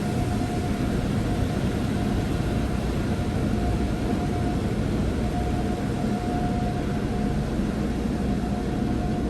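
Automated tunnel car wash working over the car, heard from inside the cabin: a steady, loud rushing of the high-powered rotating brushes and water spray, with a faint steady hum underneath.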